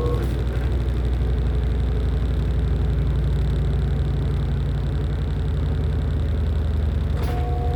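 LG top-loading washing machine running with a steady low hum. A motor whine cuts out with a click just after the start and comes back at a slightly different pitch with another click near the end.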